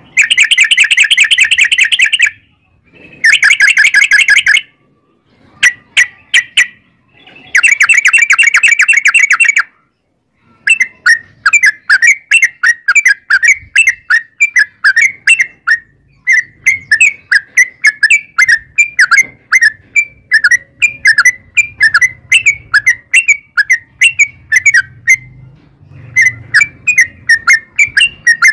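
Yellow-vented bulbul (trucukan) singing: three fast, dense rattling trills of about two seconds each in the first ten seconds, then a long run of short, quick chirps, several a second, broken by two short pauses.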